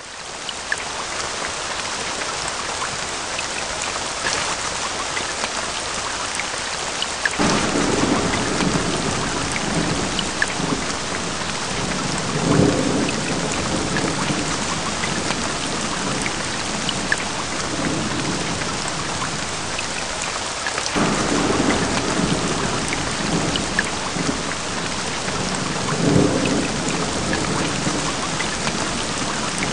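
Steady heavy rain with rolling thunder: a long rumble builds from about seven seconds in and peaks a few seconds later, and a second one does the same from about twenty-one seconds in.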